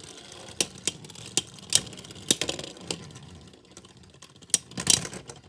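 Scattered sharp plastic clicks and taps from Beyblade X spinning tops in their plastic stadium as a round ends, about seven of them, spaced unevenly, with a faint low hum fading in the first half.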